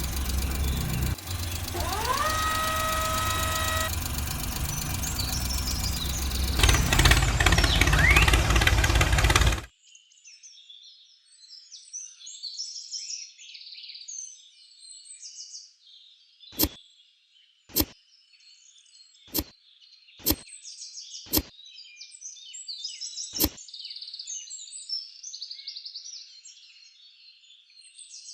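A small motor running loud and harsh with a steady whine and one rising pitch sweep, which cuts off suddenly about ten seconds in. After that, birds chirp faintly, with six sharp clicks spaced about a second apart.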